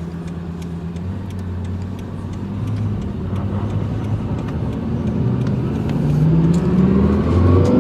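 Lexus LFA's V10 engine running steadily, its pitch climbing as the revs rise over the last few seconds.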